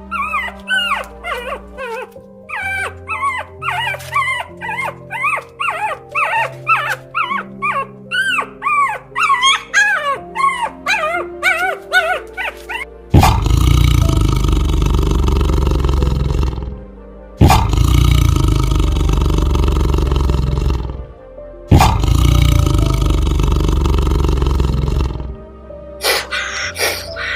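Animal calls over background music: a fast run of many short calls, each rising and falling in pitch, then three long, loud, rough calls of a few seconds each, starting about halfway through.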